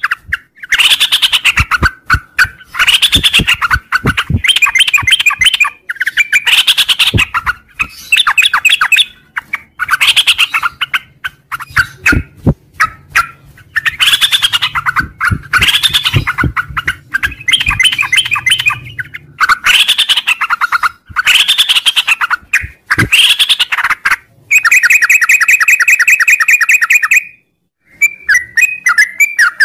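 Yellow-vented bulbul (trucuk) singing its long, rapid chattering song ('ngropel') in phrases of quick bubbling notes, each a second or two long, one after another with short breaks. Near the end comes a longer, even trill.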